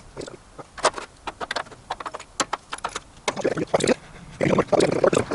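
Workshop handling noise: a run of irregular knocks, clicks and scrapes as tools and metal pieces are moved about, busiest in the second half.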